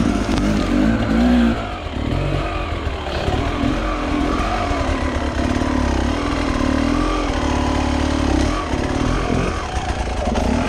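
Enduro motorcycle engine running under load, revving up and down as the throttle is worked, its pitch rising and falling.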